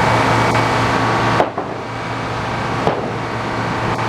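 Sawmill's engine running steadily, with two sharp clicks about a second and a half apart.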